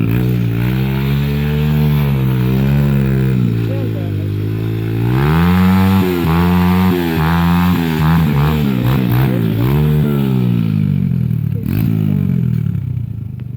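Motorcycle engine running, its pitch rising and falling repeatedly as the throttle opens and closes. There is a run of quick rises and drops in the middle.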